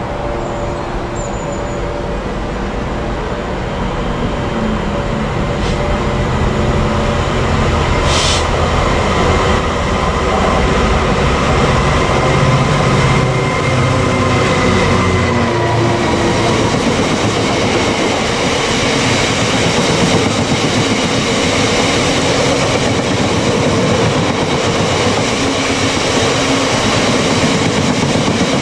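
Class 66 diesel-electric locomotive's two-stroke V12 engine running steadily as it approaches and passes, growing louder, then a long rake of box wagons rolling by with a heavy wheel rumble on the rails.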